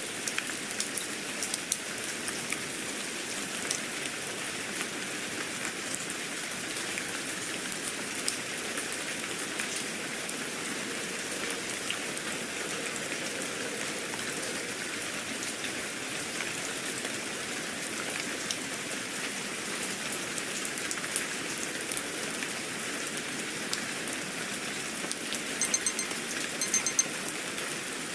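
Steady rain falling, with scattered sharp drop ticks. Near the end, a brief run of short high beeps sounds over it.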